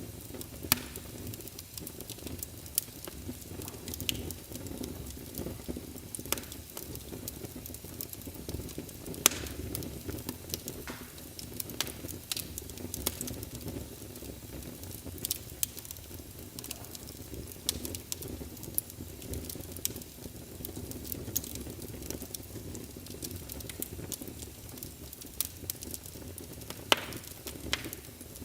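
Logs burning in a fireplace: a steady low rumble of flame with scattered sharp pops and crackles. The loudest pops come about a second in, about nine seconds in, and near the end.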